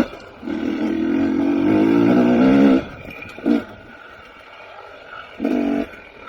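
KTM 300 XC TPI two-stroke dirt bike engine revving in bursts as the throttle is opened and closed: one long pull of about two and a half seconds, then a quick blip, then another short burst near the end.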